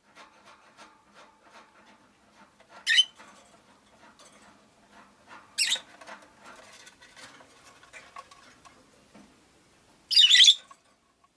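Rosy-faced lovebirds giving short, sharp, high-pitched calls: three calls, the last a little longer, near the end. Faint clicks and rustles run between the calls.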